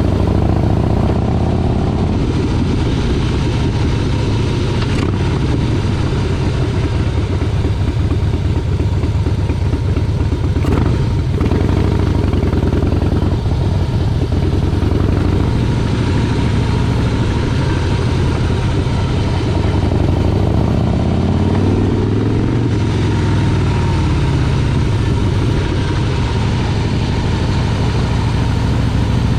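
Motorcycle engine running while riding, loud and steady, its pitch dipping and climbing again in the last third as the speed changes.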